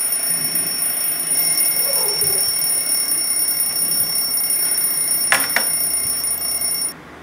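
A steady, high-pitched electronic tone that cuts off suddenly near the end, with a sharp click a little before it stops.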